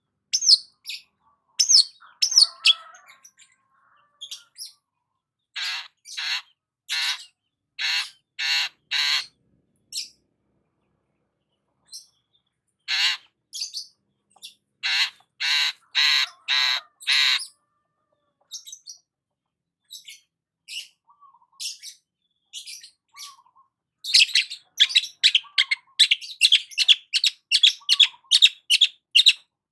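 Long-tailed shrike (cendet) calling: evenly spaced series of harsh, raspy notes, about two a second. Near the end it breaks into a faster chattering run.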